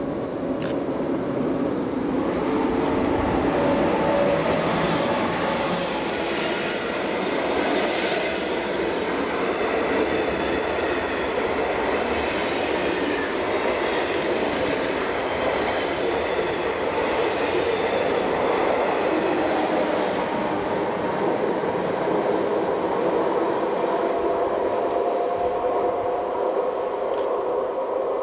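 Locomotive-hauled SJ passenger train passing close by: steady wheel-on-rail running noise from the electric locomotive and coaches. Faint sharp clicks from the wheels ride over it through most of the pass.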